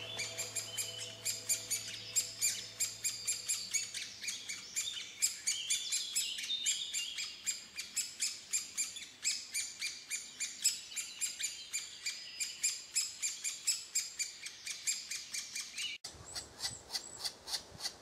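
Birds chirping in a rapid, continuous chatter of short high-pitched calls, several a second. Near the end the chatter changes abruptly to a different set of chirps.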